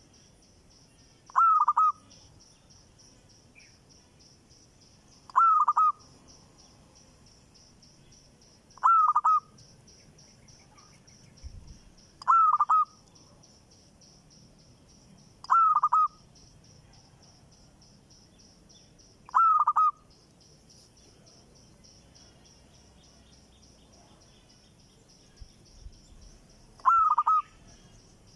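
A newly acquired bird calling: a short, loud call of about half a second, repeated seven times every three to four seconds, with a longer pause before the last call.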